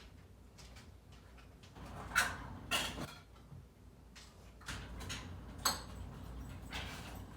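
Dishes and cutlery clinking and knocking, half a dozen separate strikes spread over several seconds, as cat food is dished out.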